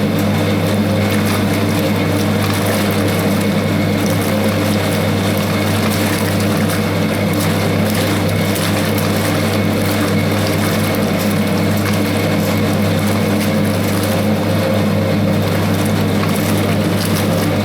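1960s Hoover 0321 wringer washing machine running its wash, the motor giving a loud, steady hum as it churns the load in the water.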